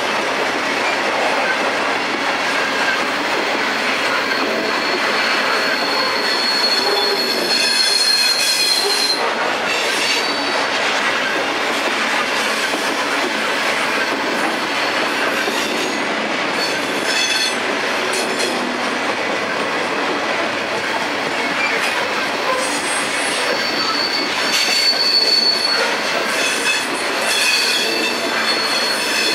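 Norfolk Southern coal train's steel gondola cars rolling past close by: a steady rumble and rattle of wheels on rail. High-pitched wheel squeal comes and goes, strongest about a fifth of the way in and again near the end.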